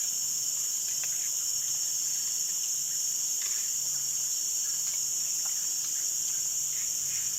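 Steady, high-pitched insect chorus of the forest, with a few faint scattered ticks.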